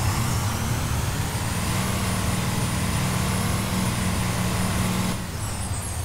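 Blue Bird Vision school bus driving, its engine running steadily under a high whine that rises for about two seconds and then holds, easing off about five seconds in.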